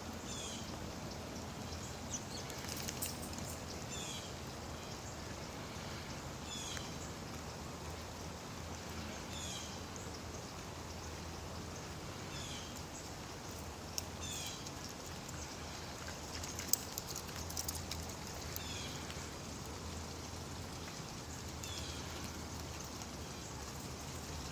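Steady rain falling, with a bird repeating a short, high, falling chirp about every two seconds and a few sharp clicks.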